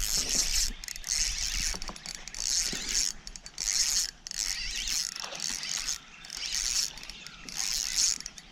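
Fishing reel being cranked in short spurts, its gears whirring and clicking about once a second.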